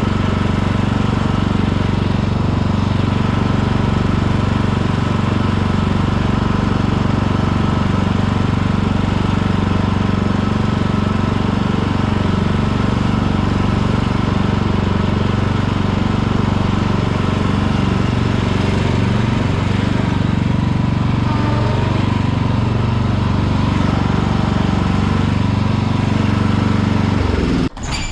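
Riding lawn tractor's engine running steadily under way, with a low, even hum. It cuts off suddenly near the end.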